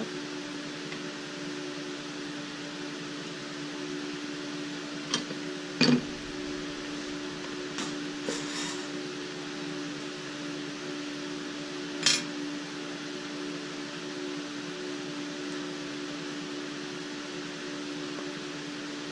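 Steady machine hum in the welding shop, with a few short metallic clicks and clinks from TIG torch parts (collets, gas lens) being handled, the loudest about 6 and 12 seconds in.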